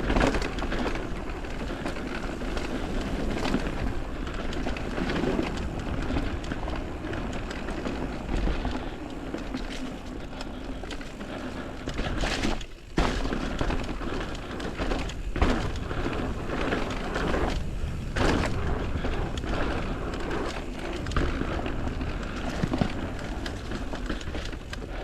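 Mountain bike riding down a dirt trail: steady rolling noise and rattle of tyres, chain and frame over rough ground, with several sharp knocks from hits on bumps.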